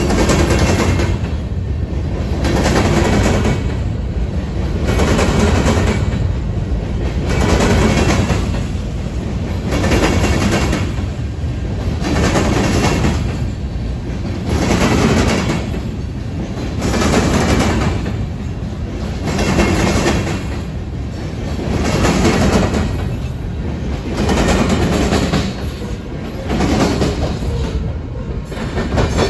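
Freight train's covered hopper cars rolling past, wheels clattering on the rails, the noise swelling and fading about every two seconds.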